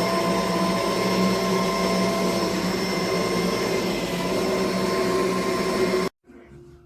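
Kenmore DU4080 Featherlite bagless upright vacuum running steadily with a constant motor whine, cutting off abruptly about six seconds in.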